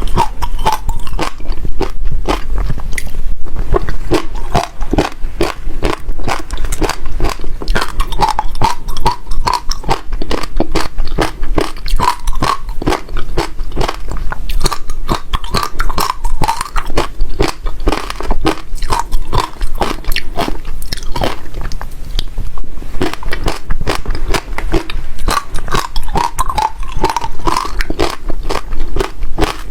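Passion fruit seeds being bitten and crushed between the teeth, close to the microphone: a loud, continuous run of rapid, irregular crunches with no pause.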